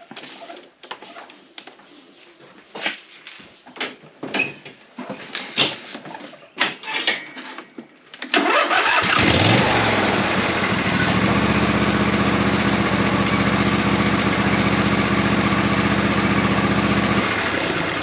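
A few seconds of scattered clicks and knocks. Then, about eight seconds in, a lawn tractor's Briggs & Stratton V-twin engine catches and starts, runs steadily for about seven seconds, and shuts off near the end.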